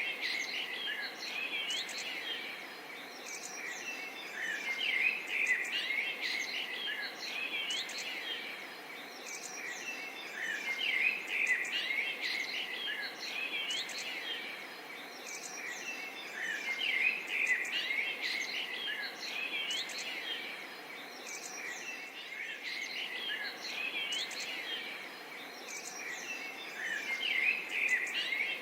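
A chorus of many birds chirping and calling, with a steady hiss of insects underneath. The chorus swells in loudness roughly every six seconds.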